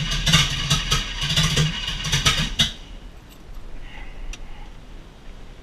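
Chevy 350 V8 with open headers cranking and firing unevenly, with sharp pops from the headers, during a start attempt after its plug wires were reset to the factory firing order. It cuts out suddenly about three seconds in without catching.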